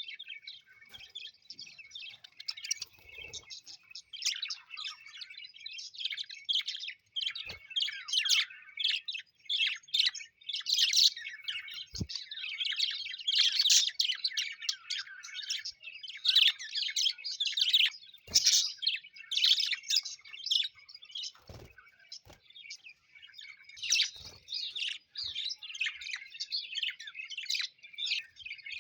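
A flock of small parrots chirping and chattering nonstop, many quick high calls overlapping, with a few faint taps now and then.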